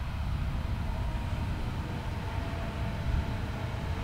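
A train running, with a heavy low rumble and faint steady whining tones above it.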